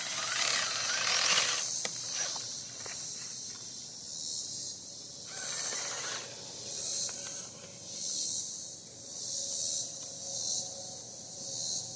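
RC rock crawler's motor and drivetrain whirring and grinding in two short bursts, near the start and about six seconds in, over a steady insect chorus of cicadas that swells and fades about once a second.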